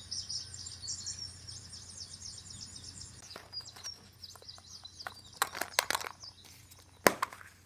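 Birds chirping in the background: quick, high, repeated short chirps. After about five seconds a few sharp clicks and crackles, the loudest near the end.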